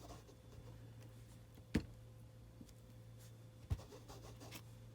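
Two sharp taps about two seconds apart, from a rubber leaf stamp being pressed onto paper on a craft table, over a steady low hum.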